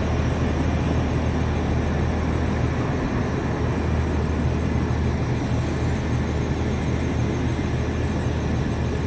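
Steady rumble and hiss of aircraft engines at an airport, holding an even level throughout.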